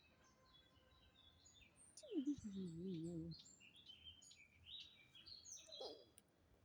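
Small birds chirping, with short high calls scattered throughout. About two seconds in, a low pitched call or hum slides down and then wavers for over a second. It is the loudest sound here.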